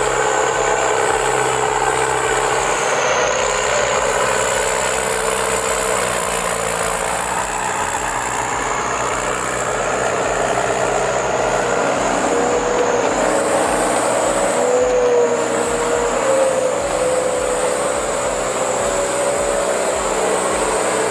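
Heavy logging truck's engine running steadily under load, with a high whine over it and the engine note shifting a little in the second half.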